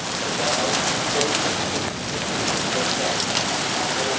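Heavy storm rain falling steadily on surfaces, with scattered sharp taps from individual drops striking close by.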